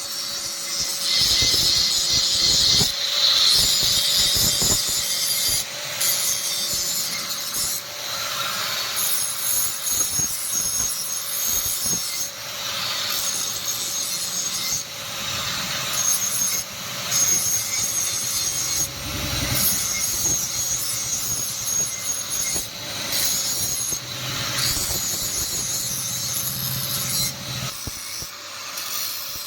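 Hand file scraping back and forth across a steel spear blade made from truck leaf spring, in repeated long strokes every second or two, over a faint steady hum.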